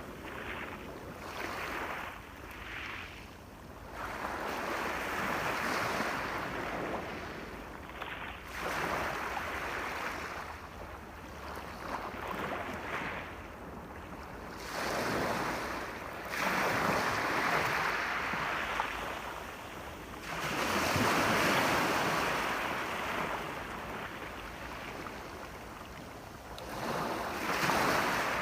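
Ocean waves breaking and washing up the shore, the surf swelling and falling away every few seconds.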